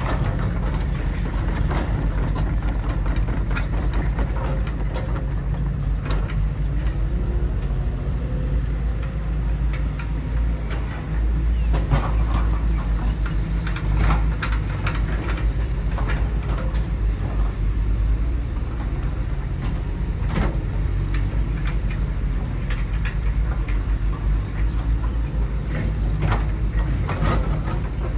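Construction machines running: a steady low engine-like drone with scattered clanks and knocks throughout.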